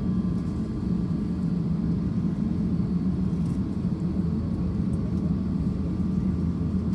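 Steady low rumble of an Airbus A350-1000's cabin noise from its engines and air system, unchanging throughout, with a faint steady whine above it.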